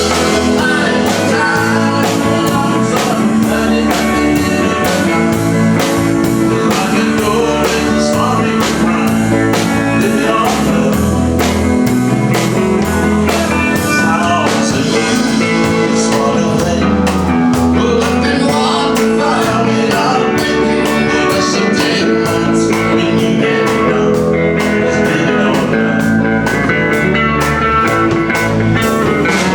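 Live country-rock band playing, with guitar over bass notes and a steady drum beat.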